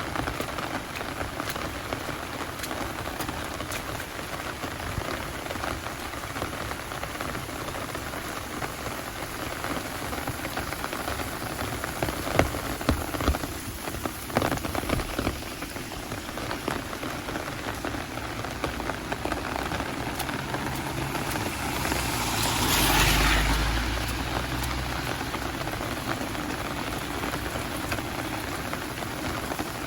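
Heavy rain falling steadily, with a few louder taps about halfway through. About three quarters of the way in, a motor vehicle passes: its engine hum and tyre hiss swell and then fade.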